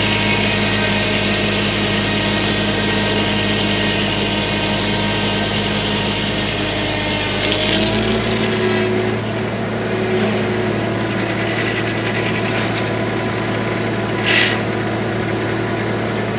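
Homemade circular sawmill driven off a Farmall Super M tractor's PTO, the engine and blade running steadily with a hiss of sawing over them. About halfway through the hiss drops away and the pitch rises a little as the blade comes free of the cut. Two short hisses follow, one near the middle and one near the end.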